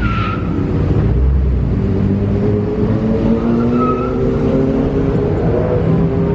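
A car engine revving, its pitch rising in slow sweeps, with two short high squeals, one at the start and one about four seconds in.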